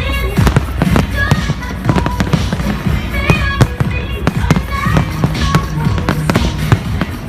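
Fireworks bursting in rapid, irregular bangs and crackles over loud music.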